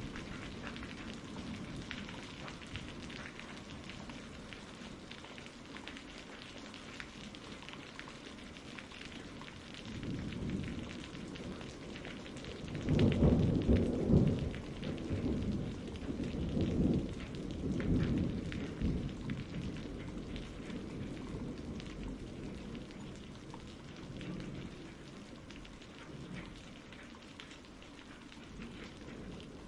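Steady rain falling, with a roll of thunder about halfway through that rumbles in several swells for some seconds before fading back under the rain.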